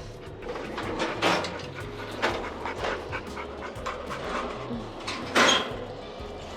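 Dog panting in short, irregular breaths, with one louder breath about five seconds in.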